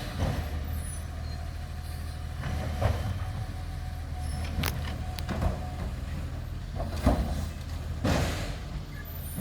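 Garbage truck engine running steadily, with several sharp knocks and clanks and a short hiss near the end.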